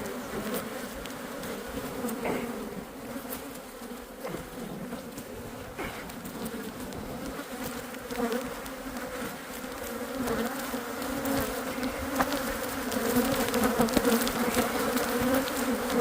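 Many Saskatraz honey bees buzzing in flight, a steady wavering hum from a colony stirred up by being opened, growing louder over the last few seconds, with a few faint clicks.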